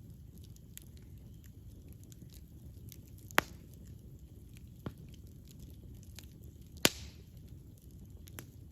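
Wood fire burning: a low steady rumble of flames with a light, constant crackle. Two loud, sharp pops come a few seconds apart, with a smaller snap between them.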